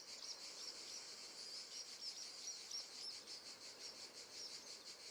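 Faint nature-sounds background of steady, high-pitched chirping, several chirps a second, like crickets and small birds.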